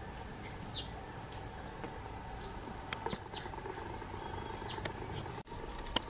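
Small birds chirping: short, high chirps at irregular intervals, with a few louder down-slurred notes, over steady background noise.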